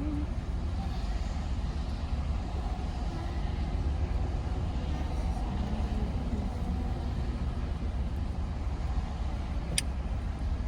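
Car engine idling, heard from inside the cabin as a steady low rumble, with a single sharp click near the end.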